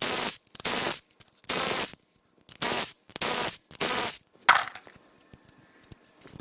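A power ratchet spinning off the rocker arm nuts on a 5.7L Vortec V8's cylinder head in six short bursts, then a metal part set down with a sharp clink and a faint ring about four and a half seconds in.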